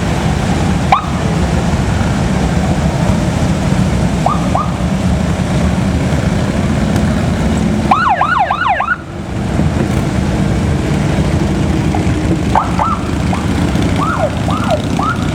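Massed motorcycle engines rumbling steadily, cut through by short rising-and-falling siren whoops: one about a second in, a pair around four seconds, a rapid cluster about eight seconds in, and several more near the end.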